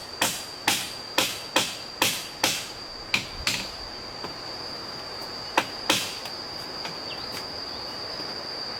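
Hammering blows, about two a second, stopping about three and a half seconds in, then two more blows near six seconds. A steady high-pitched insect drone runs underneath.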